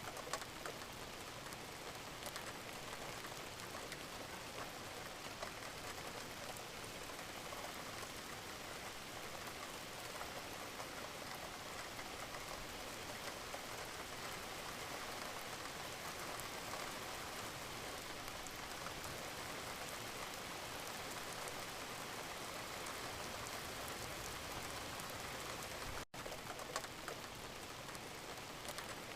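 Steady, gentle rain falling, an even pattering hiss with fine scattered drop ticks, broken once by a split-second dropout near the end.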